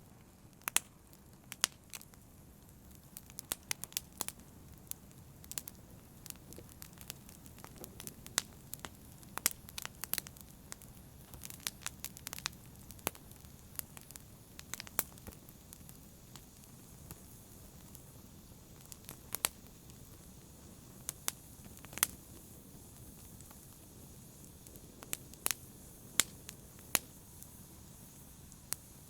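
Campfire burning, with sharp irregular crackles and pops of burning wood over a low steady hiss of the flames.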